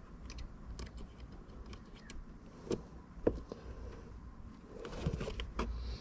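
Scattered light clicks and taps of small parts being handled, with two sharper knocks a little after the middle and a short burst of rattling and rustling near the end.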